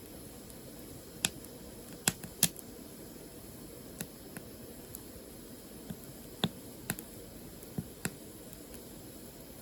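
Firewood burning: sharp, irregular crackles and pops, about ten of them, the loudest a cluster around two to two and a half seconds in, over a steady low hiss.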